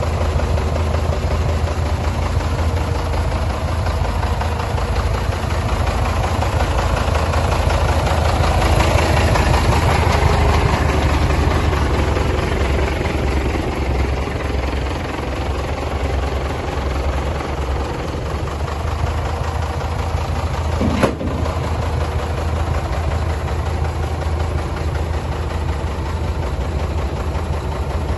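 MAN F2000 19.322 truck's six-cylinder diesel engine idling steadily, swelling slightly about a third of the way in, with one sharp click about two-thirds through.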